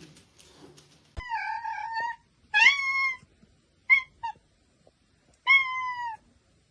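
A cat meowing over and over: three drawn-out meows, with two short clipped cries in between.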